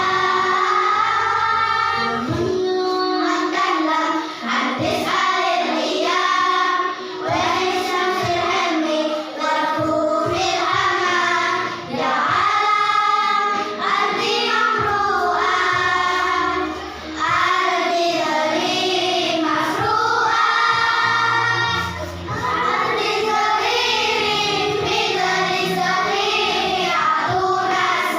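Children's choir singing in phrases that break briefly every few seconds, with low held notes underneath.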